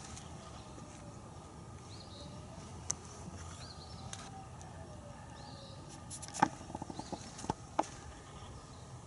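Faint small-bird chirps repeating over a quiet background, with a handful of sharp clicks or taps about six to eight seconds in.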